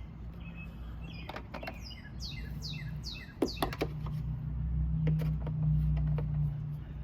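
A small bird chirping: a quick run of about five falling chirps a couple of seconds in, among scattered clicks and knocks of toys being handled, over a low rumble that swells in the second half.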